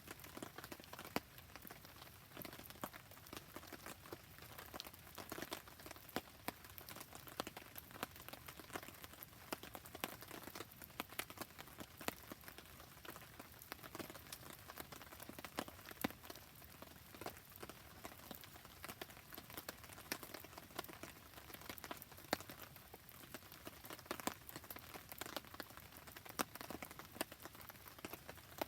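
Steady rain with a crackling wood campfire: a soft, even hiss dotted throughout with many sharp ticks and pops.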